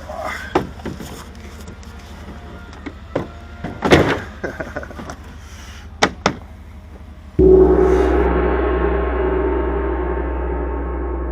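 A few scattered knocks and clicks, then, about seven seconds in, a single struck gong that rings on, slowly fading.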